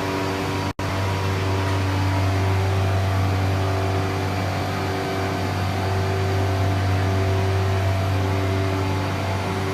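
CNC nesting machine running with a steady industrial hum: a strong low drone with a few fixed tones above it. The sound drops out for an instant under a second in.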